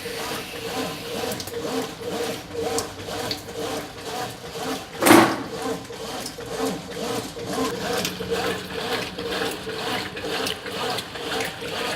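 Brastemp 9 kg top-load washing machine agitating a full load in water: the agitator swishes back and forth in a fast, even rhythm over a steady motor hum, with one loud noise about five seconds in.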